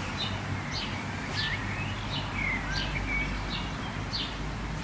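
Songbirds chirping: quick, repeated short calls with a few sliding whistled notes, over a steady low background noise.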